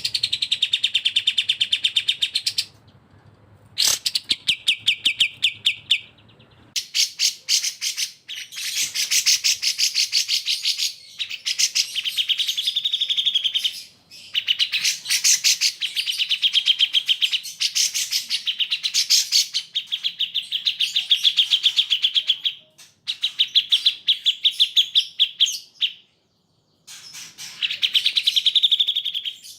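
Cucak jenggot and kapas tembak song: long, fast, high-pitched trilled phrases of rapidly repeated notes, broken by short pauses, with one longer pause near the end.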